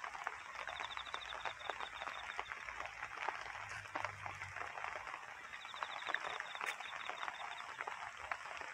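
Rain pattering steadily on leaves and grass, a dense crackle of small drops. A high, evenly pulsed trill comes in twice, near the start and again past the middle.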